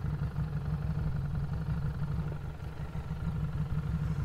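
Harley-Davidson Street 500's V-twin engine idling steadily with a low, even rumble while the motorcycle stands still.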